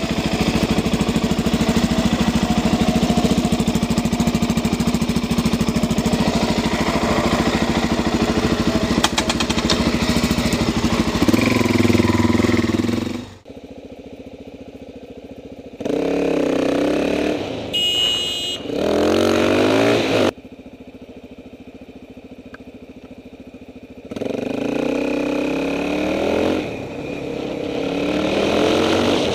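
Suzuki DR-Z400SM supermoto's single-cylinder engine running steadily under load, then, after an abrupt cut about thirteen seconds in, revving up and down with quieter idling stretches in between. A brief high-pitched tone sounds about halfway through.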